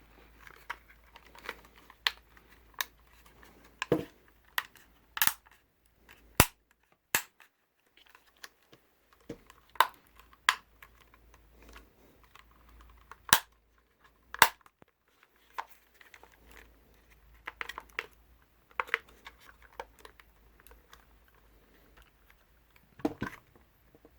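The plastic clips of a DJI Mavic 2 Pro drone's casing snapping into place as the cover is pressed down around the body: a series of sharp clicks at uneven intervals, with quiet handling in between.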